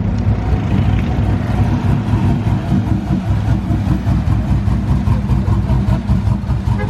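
A car engine running with a deep, uneven rumble whose loudness pulses rapidly.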